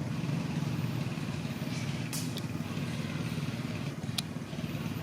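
A steady low motor rumble, with a few short high-pitched squeaks or chirps about two seconds in and again about four seconds in.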